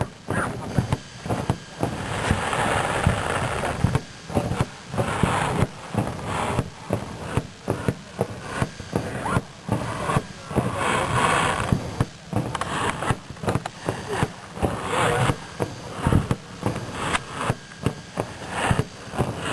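Fireworks display going off: a rapid, irregular run of bangs and pops, with several stretches of crackling between them.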